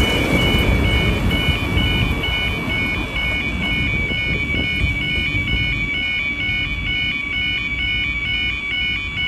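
Level crossing warning alarm sounding continuously: a steady high tone with a second, higher tone pulsing on and off about two to three times a second. Under it a low rumble dies away over the first few seconds.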